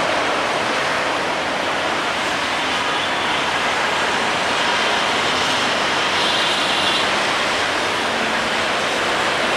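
Bangladesh Railway express train running along the track, a steady rushing noise with no distinct wheel clicks.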